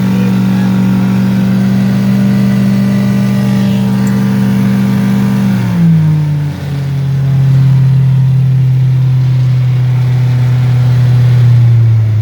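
2001 Honda 90 hp four-stroke outboard motor running steadily under way, then throttled back about halfway through, its pitch dropping quickly and settling lower, with a further small drop near the end.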